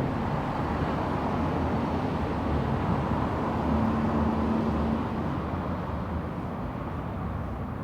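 City street traffic at night: steady low rumble of vehicles, one passing close and swelling about four seconds in, with a brief steady hum, then easing away.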